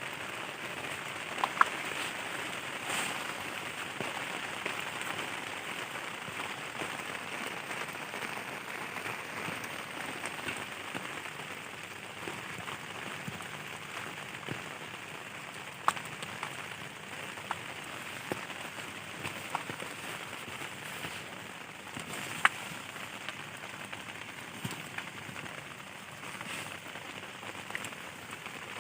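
Heavy rain falling steadily on a dome tent's fabric, with a few sharp, louder single drop hits now and then.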